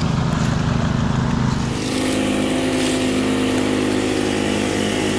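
An engine running steadily, its note changing abruptly about two seconds in.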